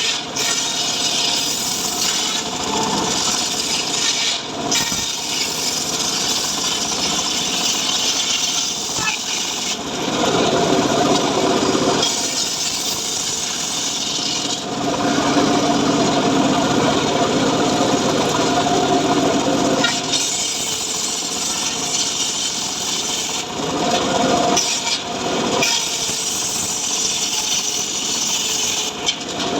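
Homemade engine-driven saw cutting through mahogany: continuous sawing noise with the engine running under load. It grows louder in heavier stretches of cutting, around ten seconds in and again from about fifteen to twenty seconds.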